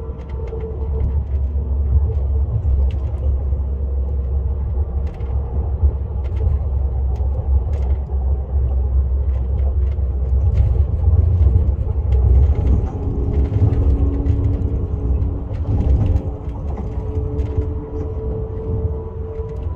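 KTX high-speed train running: a steady low rumble with faint whining tones and scattered light clicks.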